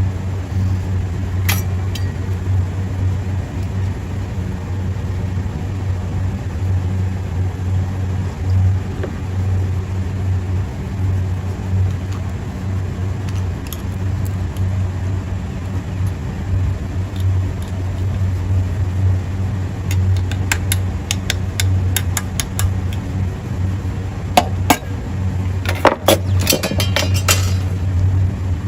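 Steady low machinery hum with light metallic clicks and clinks from compressor parts and tools being handled during reassembly. There is a single click early, a quick run of clicks about twenty seconds in, and a denser cluster near the end.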